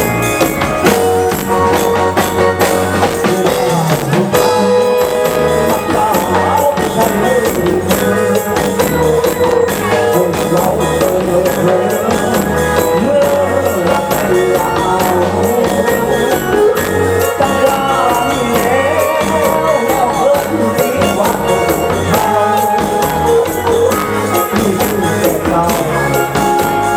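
Thai ramwong dance band music, with drums keeping a steady, even beat under melody lines.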